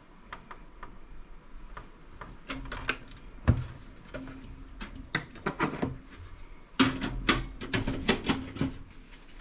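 Scattered clicks, taps and knocks of a desktop computer case being worked on by hand, with one heavier thump about three and a half seconds in and quick runs of clicking in the second half.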